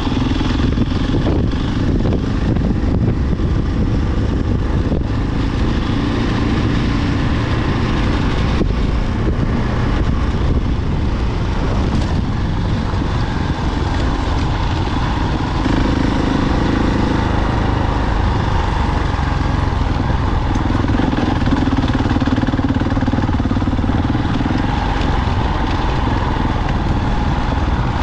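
Single-cylinder engine of a 2022 KTM 690 Enduro R running under way, its note growing stronger for a few seconds at a time.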